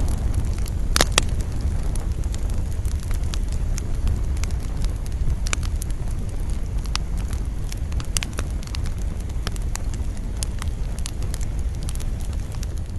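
Campfire burning, with sharp crackles and pops scattered throughout over a steady low rumble of wind; the loudest pops come in a pair about a second in.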